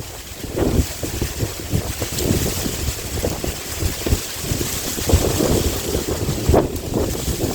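Strong sea wind gusting on the microphone in irregular low rumbles, over a steady high rustle of wind through bamboo leaves.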